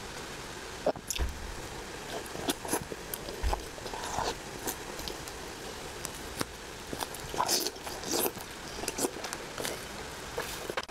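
Close-miked eating of soft braised pork belly: chewing with wet mouth clicks and lip smacks at irregular intervals.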